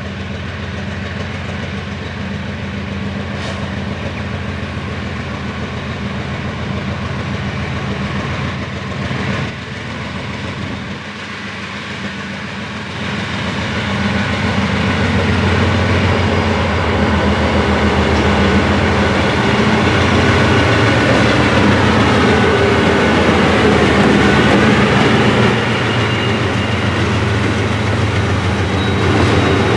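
GE C36-7i diesel locomotive's 16-cylinder engine running steadily. About halfway through it grows louder and is joined by wheels clattering over rail joints and a faint high squeal.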